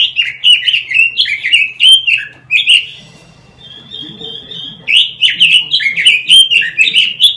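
A chim quế lâm songbird singing: two fast, loud runs of short chirping notes that slide downward, separated by a pause of about two seconds that holds a softer, thin, steady note.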